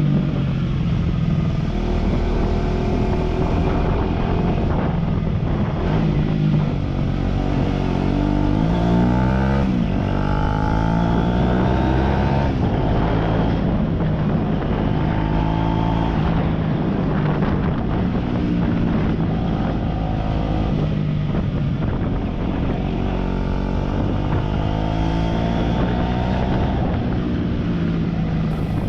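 Aprilia RS4 125's single-cylinder four-stroke engine through a Scorpion aftermarket exhaust, revving up and dropping back several times, with the pitch climbing and then falling away in steps, as when accelerating through the gears.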